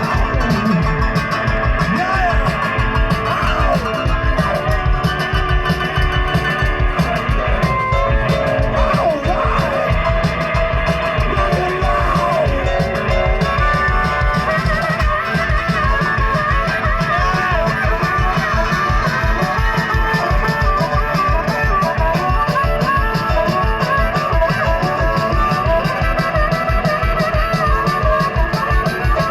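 Live blues-rock band playing an instrumental break: electric guitar lines over a steady, driving drum beat.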